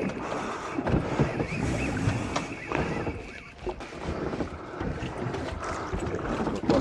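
Wind buffeting the microphone with sea noise around a small fishing boat, an uneven rushing that rises and falls.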